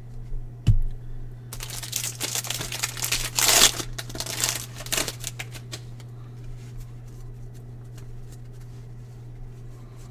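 Baseball trading cards and a card pack's wrapper being handled: a soft thump about a second in, then several seconds of crinkling and rustling with many small clicks, thinning to occasional light taps of cards being set down.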